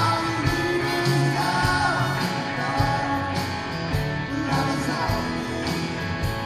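Live rock band playing, with a singer's voice over guitars and drums.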